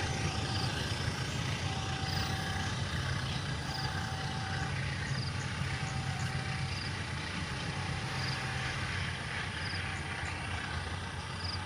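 A heavy engine idling with a steady low hum. A pitched electronic beep about a second long repeats roughly every two seconds over it.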